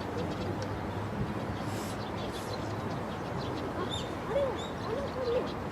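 Birds calling over a steady background hiss: faint high chirps throughout, and a few short low calls near the end.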